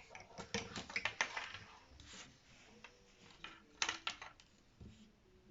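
Irregular light clicks and clacks of small hard objects being handled on a table, in two short clusters with a pause between.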